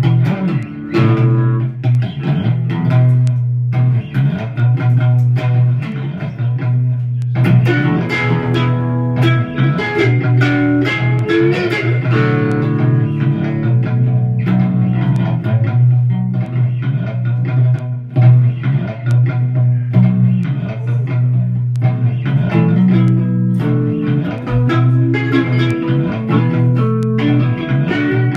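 Guitar playing a heavy blues riff, plucked notes over a steady low drone.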